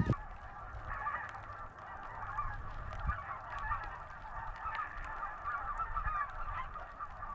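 A flock of geese honking, many calls overlapping without pause.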